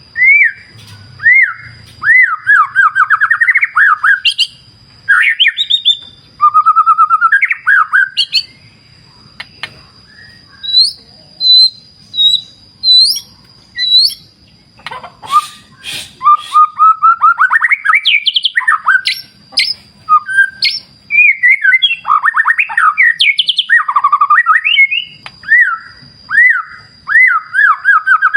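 White-rumped shama (murai batu) singing: loud, varied phrases of rising and falling whistles with short pauses between them. A faint steady high tone and the faint sound of a river run underneath.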